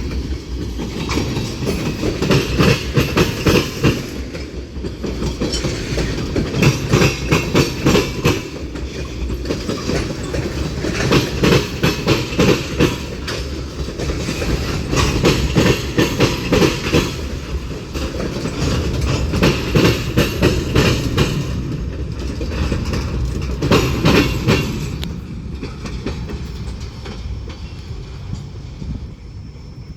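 CSX freight train's cars rolling past, the wheels clacking in groups every few seconds over a steady rumble. The sound dies away near the end as the train passes.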